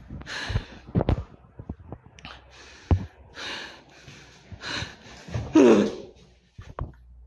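A man breathing hard in a series of short, noisy breaths. There are a few sharp knocks, and a loud strained vocal grunt falls in pitch about five and a half seconds in.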